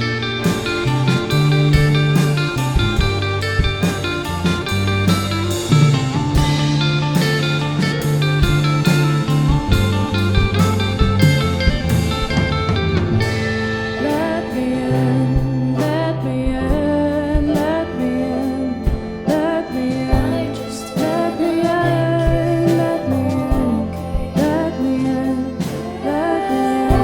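Live band music: drums keeping a steady beat under bass, piano and guitars, with a bending melodic lead line and some wordless singing.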